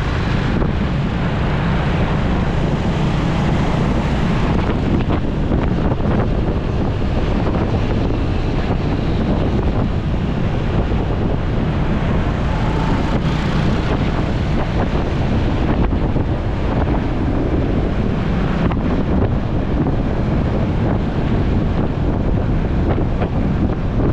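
Steady wind rush on the microphone of a camera riding on a moving motorcycle, with vehicle and engine noise beneath it.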